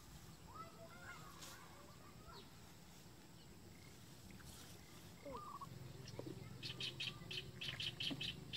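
Faint wild birds chirping, with scattered short calls. Near the end comes a quick run of high, evenly spaced chirps, about five a second.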